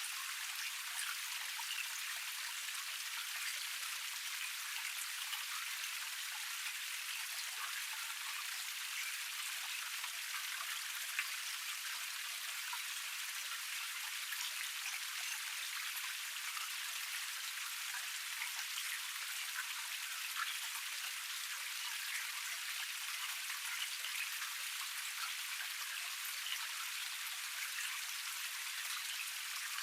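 Water running over the second tier of a small forest cascade: a steady splashing hiss with many small drips and splashes scattered through it.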